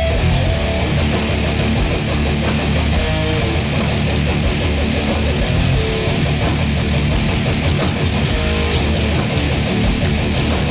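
Heavy, distorted hardcore music at full volume: electric guitars and bass over drums with regularly struck cymbals, no singing.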